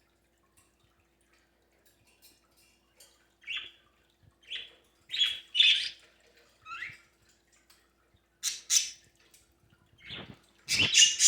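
Pet parakeets and a cockatiel giving short, separate chirps and squawks, a few at a time and growing louder. Near the end they break into loud, continuous squawking.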